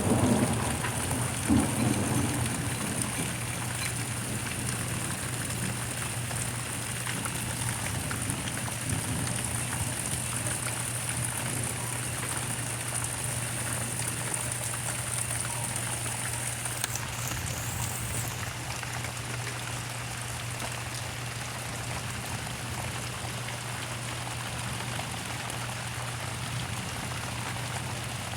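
Steady rain falling, a constant even hiss, with a steady low hum underneath.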